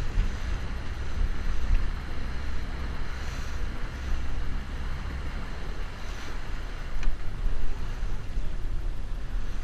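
Wind buffeting the microphone with a steady low rumble and sea noise around a small open boat.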